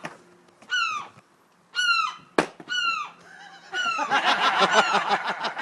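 A bird guarding its nest, giving short calls that fall in pitch, about one a second. There is a sharp knock about two and a half seconds in, and a loud, rough rattling stretch from about four seconds in.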